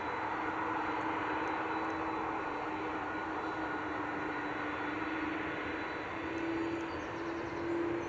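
Jet airliner engines running: a steady rushing noise with a held low hum that steps up slightly in pitch about six seconds in.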